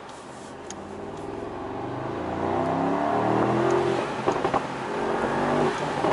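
Mercedes-AMG SL 63's twin-turbo V8 accelerating hard, its note rising in pitch and loudness as the revs climb, heard from inside the cabin. A little after four seconds in there is a short break with a few sharp pops, and then the engine climbs again.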